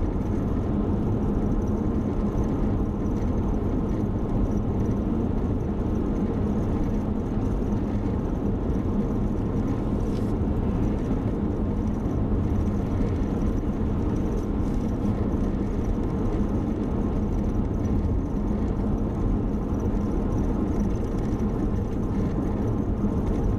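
Steady road and engine noise of a car driving, heard from inside the cabin: a constant low rumble with an even hum and no distinct events.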